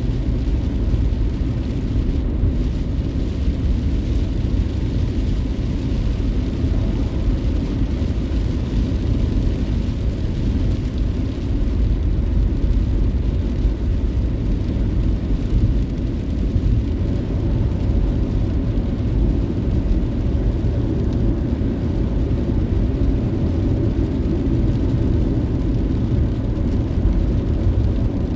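Steady low rumble of a car driving along the road, engine and tyre noise as heard from inside the cabin.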